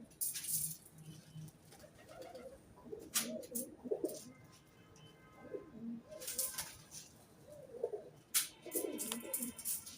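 Pigeons cooing, low wavering calls repeating throughout, broken by a few short rustling bursts.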